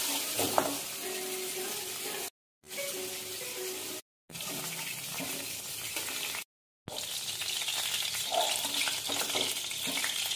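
Pointed gourds (potol) sizzling in hot mustard oil in a kadai while a metal spatula lifts them out, with a few sharp clinks of the spatula on the pan near the start. The sizzle cuts out completely three times for a moment.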